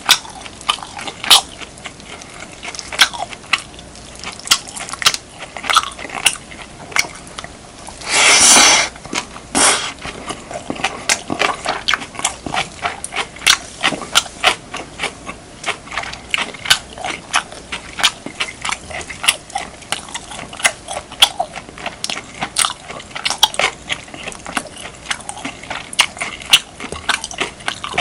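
Close-miked mouth sounds of eating beef, kimchi and rice: a dense, irregular run of small wet clicks and crunches as the food is chewed. About eight seconds in there is a louder noisy burst lasting about a second, followed by a shorter one just after.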